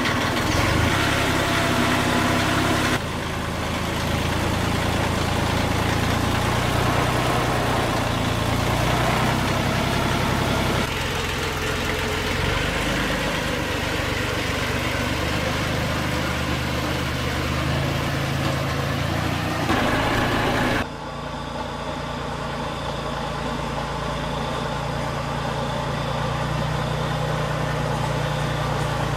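Vehicle engine idling steadily, its tone and level changing abruptly several times, as if between separate clips.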